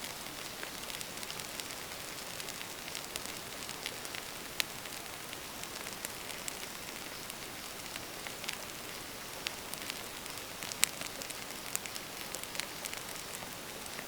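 Wood fire burning in a fire pit: a steady hiss with scattered sharp crackles and pops, the loudest about four and a half seconds in and again near eleven seconds.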